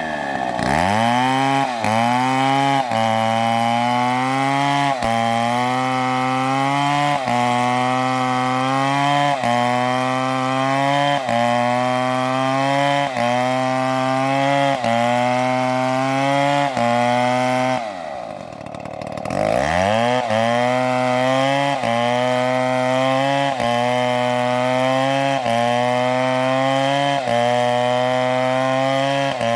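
Two-stroke chainsaw cutting wood under load. The engine pitch dips and recovers about once a second as the chain bites. About two-thirds of the way through it lets off briefly, then revs back up and keeps cutting.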